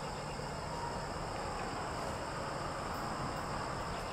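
Steady background hiss with a continuous high-pitched drone that does not change.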